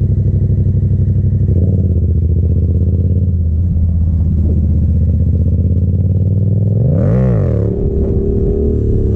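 Yamaha FZ-07's parallel-twin engine running at a steady speed. About seven seconds in it revs up quickly and drops back, then settles into a steady note again.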